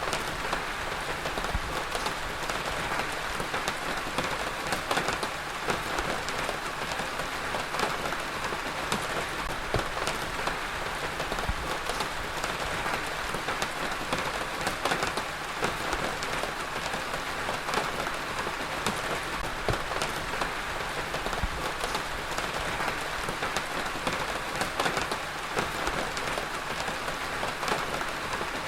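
Heavy rain falling steadily on a hard surface, a dense even hiss with many separate drops ticking through it.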